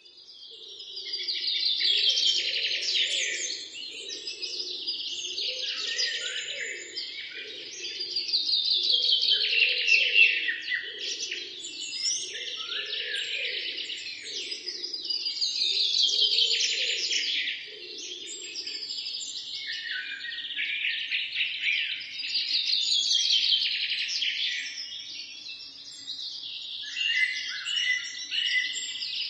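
Songbirds singing in long chirping phrases that swell and fade about every six or seven seconds. A softer, lower pulsing sound runs underneath until about two-thirds of the way through.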